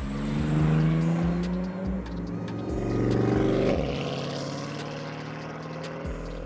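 Car engine revving hard with its pitch climbing, in two surges about a second in and about three seconds in, then running on lower and steadier.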